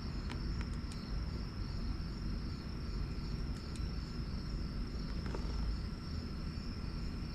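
Crickets chirping steadily in a continuous high trill, over a low rumble, with a few faint clicks.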